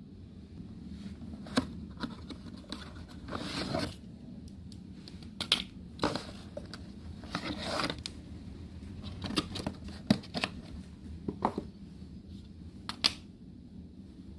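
Packaging being opened: scissors snipping and packaging tearing, heard as a series of sharp clicks and short rustling bursts over a low steady hum.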